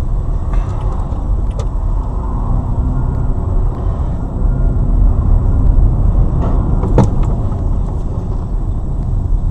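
Heavy, steady low rumble of a car driving, road and engine noise picked up inside the car, with a few light clicks and one sharper click about seven seconds in.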